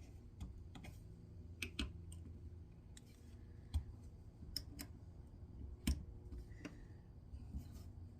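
Irregular light clicks and taps of metal tools and small rifle parts being handled and fitted, with two sharper knocks about four and six seconds in, over a low steady hum.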